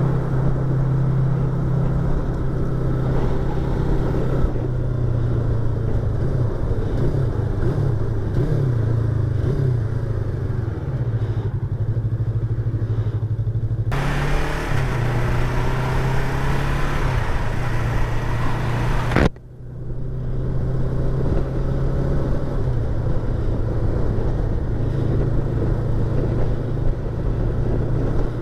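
Yamaha YZF-R25's 250 cc parallel-twin engine running under way, heard from inside the rider's helmet, its pitch rising and falling with throttle changes. Midway a louder rushing noise joins it for about five seconds, then the sound drops out briefly before the engine note returns.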